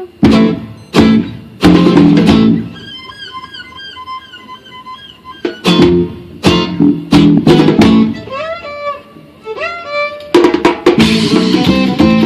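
Live world-music band playing an instrumental passage. Sharp strummed guitar chords sit under a high, wavering melody line that slides between notes, and dense percussion joins about ten seconds in.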